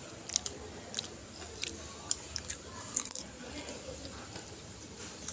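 Someone chewing popcorn close to the microphone: irregular crisp crunches, sometimes two or three in quick succession.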